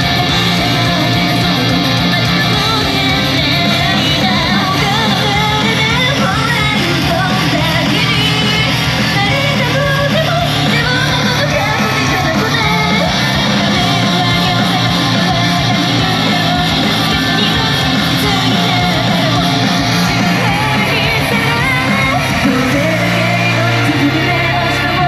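Live idol-rock band music: distorted guitars and a steady driving beat under several female voices singing, with crowd shouts mixed in and the ring of a large hall.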